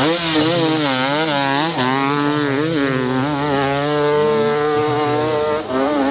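Dirt bike engine running hard at high revs, its pitch rising and falling over and over, with a brief drop near the end.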